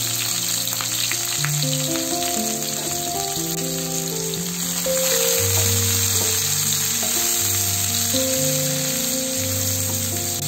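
Chopped onion and garlic sizzling as they fry in hot mustard oil in a pan, stirred with a wooden spatula. Background music with held notes plays over the frying.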